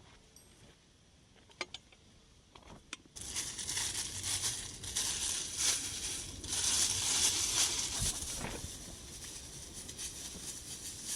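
A few light clicks, then about three seconds in a dense crinkling, crackling noise starts suddenly and continues, made up of many small rapid snaps.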